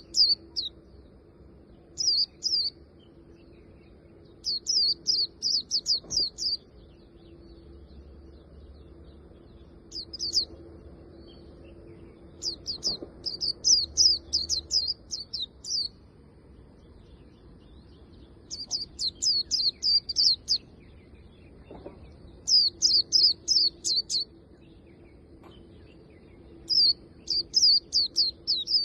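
Japanese white-eye singing: phrases of quick, high, twittering notes lasting one to two seconds, repeated about every two to four seconds with pauses between. A faint steady low hum runs underneath.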